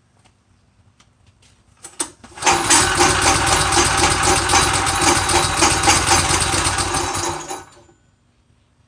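Small go-kart engine pull-started: it catches about two seconds in, runs steadily for roughly five seconds, then dies near the end.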